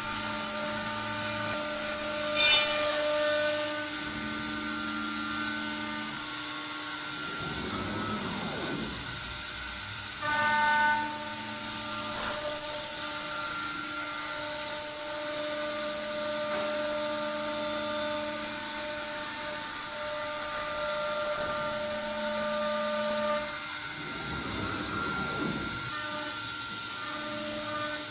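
CNC router spindle running steadily, its router bit cutting into wooden baluster stock. The cut gets loud and high-pitched for the first few seconds and again from about ten seconds in to about twenty-three seconds in, with the spindle humming more quietly in between and near the end.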